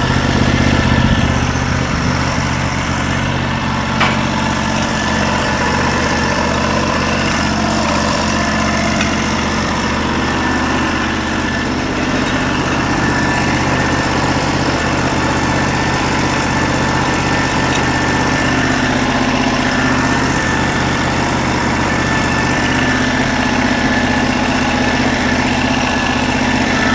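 A Norwood LM29 portable sawmill's 16 hp gasoline engine running steadily at idle, with one sharp knock about four seconds in.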